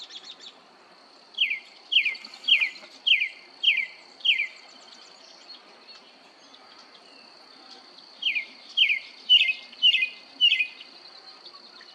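A songbird singing two phrases of clear, downslurred whistles, about two notes a second: six notes, then after a pause of a few seconds five more.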